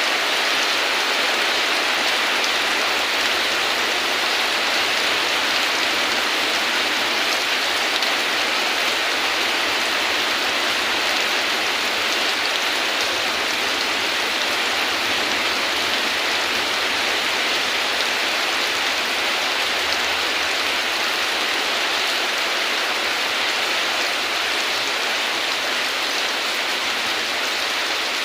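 Steady rainfall, an even unbroken hiss with no thunder or separate drops standing out.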